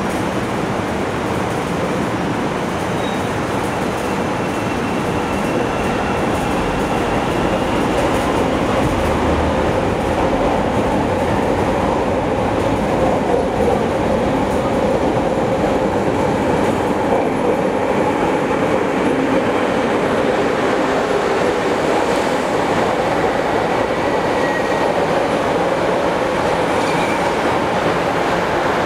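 CTA 'L' train of Morrison-Knudsen 3200-series rapid-transit cars pulling into an elevated station, its steady rumble of steel wheels on rail growing a little louder about a third of the way in as it reaches the platform and runs alongside.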